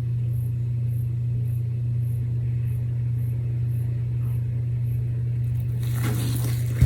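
A steady low hum, even in level throughout, with faint rustling near the end.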